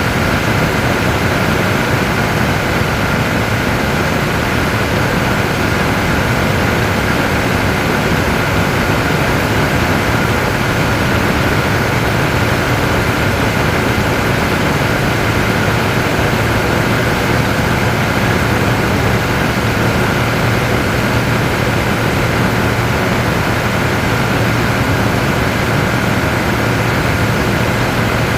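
Jet airliner engines running steadily: a loud, even rush with a steady high whine and a low hum, unchanging throughout.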